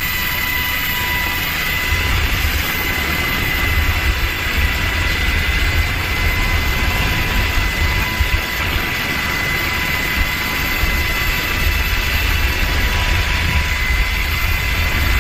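Helicopter running close by: a steady high turbine whine over a heavy low rotor rumble.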